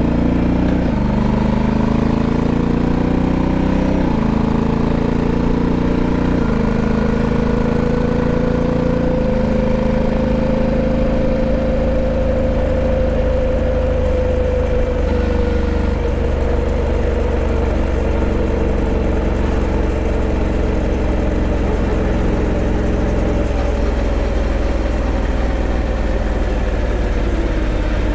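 Honda Africa Twin 1100's parallel-twin engine running steadily and loudly. Its pitch changes in abrupt steps several times, over a steady low rush.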